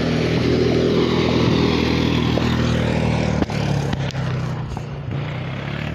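A car engine running close by with a steady hum, with a single knock about three and a half seconds in, after which the engine sound slowly fades.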